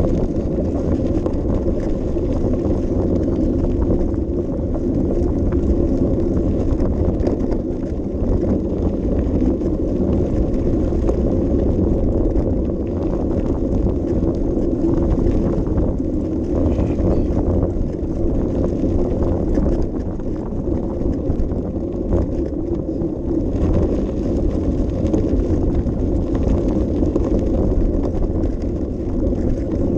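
Steady rumbling noise of a bicycle ride: tyres rolling over the path and wind buffeting the action camera's microphone.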